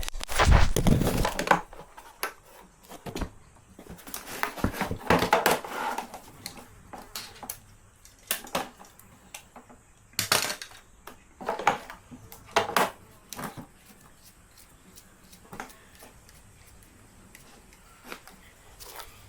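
Irregular clattering and knocking of hard objects being handled and set down, with a few louder clanks and quieter gaps between.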